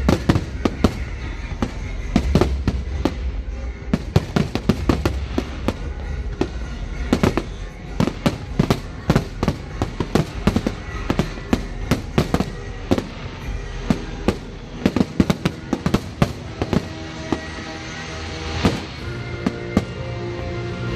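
Aerial fireworks display: a rapid, continuous barrage of bangs and crackling reports, many in quick succession. Music plays faintly underneath and becomes more noticeable near the end.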